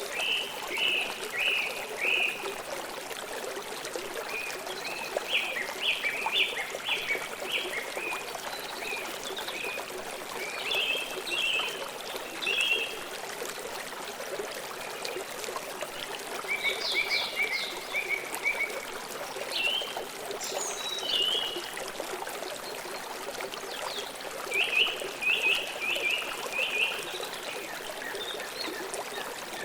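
Flowing river water rushing steadily. Over it, short runs of quick chirping calls recur about six times.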